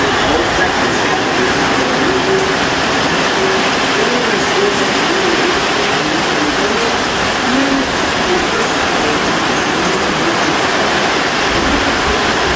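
Heavy tropical rain pouring steadily on a corrugated sheet-metal roof: a dense, unbroken hiss. A voice from a television is faint beneath it.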